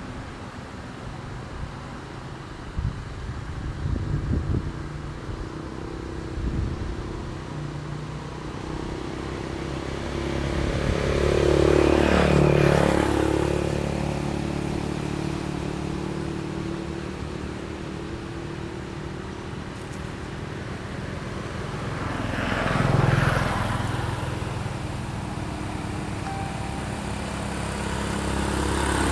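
Motor vehicles passing on a road over a steady engine hum. One passes loudest about two-fifths of the way in, a second later on, and another is approaching near the end.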